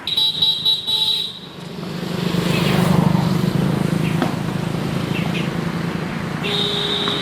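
A road vehicle passes, its low rumble building to a peak about three seconds in and then easing. A high-pitched steady tone sounds briefly at the start and again near the end.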